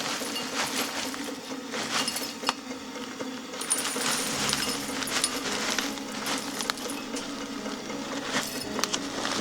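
Irregular light clicks and taps, as of small hard objects being handled, over a steady low hum, with a louder clatter right at the end.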